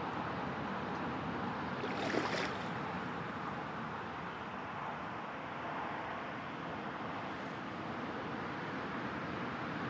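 Steady wind and water noise at the lakeside, with wind on the microphone. A short, sharper burst of noise comes about two seconds in.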